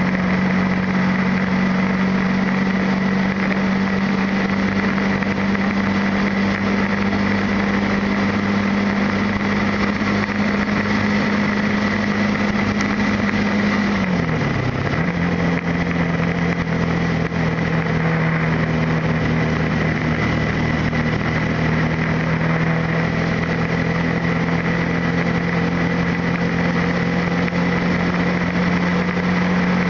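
Motorcycle engine running steadily at cruising speed over a constant rush of wind and road noise. About halfway through the engine note dips briefly, then settles at a slightly lower pitch.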